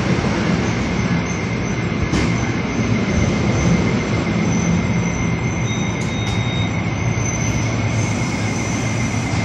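NJ Transit bi-level commuter train rolling into the platform and slowing to a stop. A steady high-pitched wheel squeal runs over the rumble of the cars, with a couple of brief clicks.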